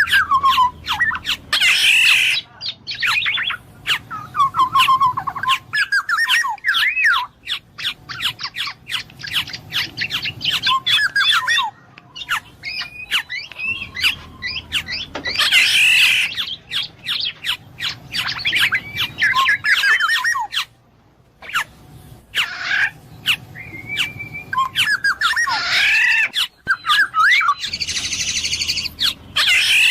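Black-naped oriole (kepodang emas) calling and singing: a fast, varied stream of slurred whistles and rapid chattering notes, broken by a few harsh squawks about two seconds in, midway and near the end.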